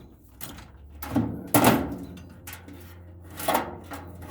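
Clunks and rattles of furnace parts being handled while a wire and its connectors are pulled out of a scrap furnace: a cluster of knocks about a second in and another knock near the end, over a faint steady low hum.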